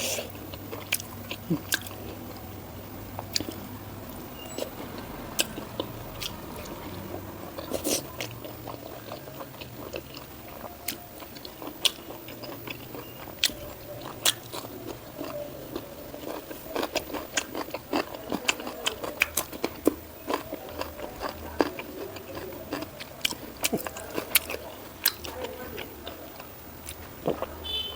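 A person chewing and biting food close to the microphone, with many short sharp crunches and mouth clicks at irregular intervals.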